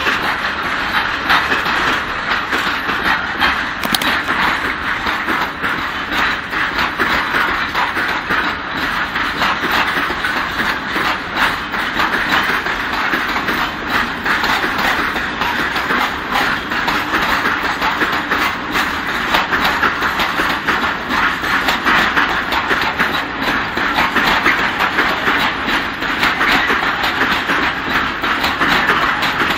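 A long freight train of loaded open-top wagons rolling past, its steel wheels clattering steadily over the rails.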